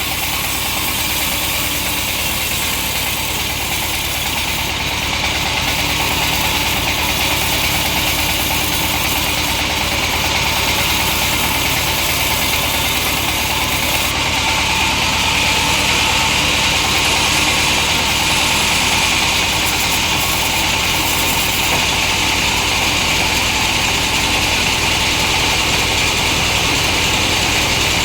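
Long-bar chainsaw running steadily under load as it rips a hardwood log lengthwise. It gets slightly louder about five seconds in and again about halfway through.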